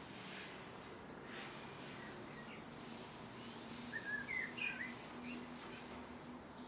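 A small bird chirping a quick run of short notes partway through, over faint steady outdoor background noise.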